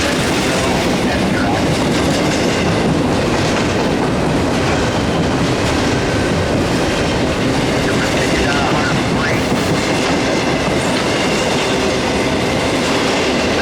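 CSX freight cars rolling steadily past, with continuous wheel-on-rail clatter and faint wheel squeal.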